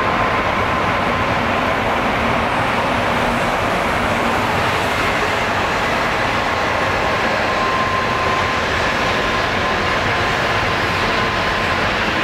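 Shinkansen train running: a steady rushing noise with a faint, high, even whine over it.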